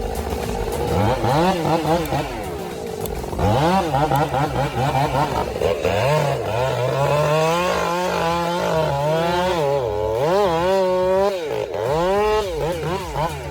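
Small two-stroke engine, a chainsaw, running with its pitch rising and falling over and over as the throttle is worked.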